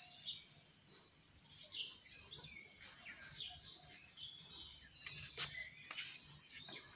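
Small birds chirping faintly, short scattered chirps, with a few soft clicks.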